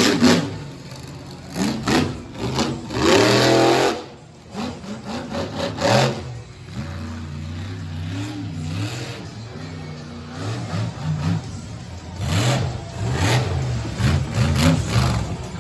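Monster truck engine revving hard in repeated surges, its pitch climbing and dropping again and again through the freestyle run. The loudest surges come right at the start and about three seconds in.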